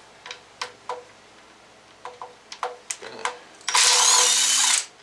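Several light metallic clicks and taps of a socket and tool on the engine, then a power tool with a 10 mm socket runs for about a second near the end, spinning out one of the cover bolts.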